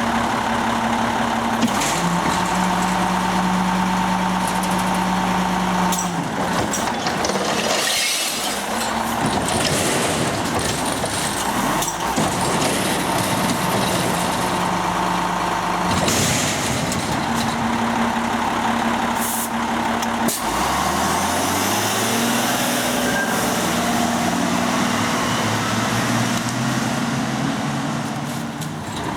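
Recycling truck's engine running close by, its pitch stepping up and down, with bursts of air hiss a few times. About two-thirds of the way through the engine revs up, rising in pitch.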